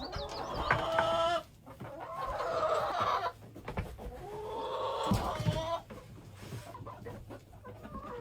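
Chickens clucking, in three drawn-out stretches of wavering calls, with a few light knocks and rustles between them.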